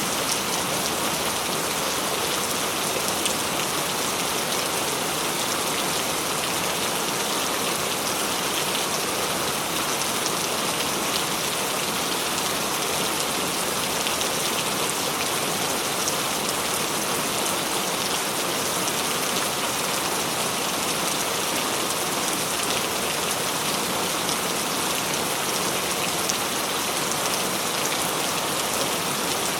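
Steady rain falling, with a dense, even patter of drops hitting a surface and no thunder.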